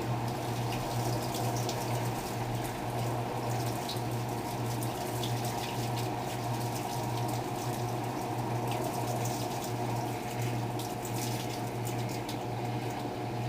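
Electrolux LTR10 washing machine in its rinse stage: water running steadily in the machine over a constant low hum.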